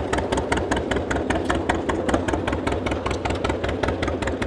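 Tractor engine running with an even, steady beat of firing pulses, about six a second.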